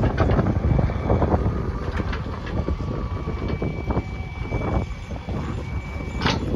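Backhoe loader's diesel engine running under work, a steady low rumble with irregular knocks and rattles, and wind buffeting the microphone.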